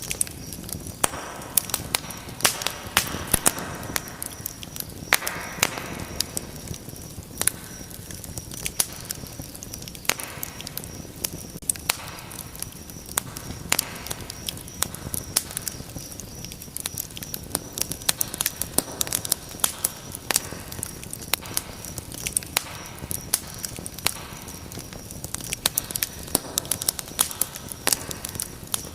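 Wood fire burning in a fireplace, crackling and popping with many sharp snaps at irregular intervals over a steady low hiss of flames.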